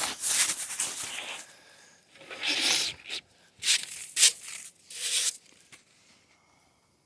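Several short bursts of rustling and scraping, dying away about two-thirds of the way through.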